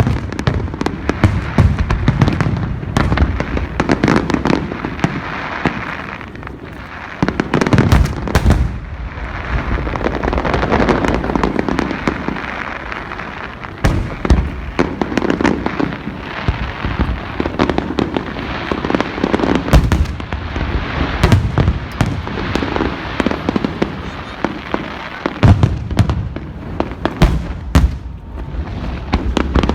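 Fireworks display: aerial shells bursting in quick, irregular succession, sharp bangs over continuous crackling.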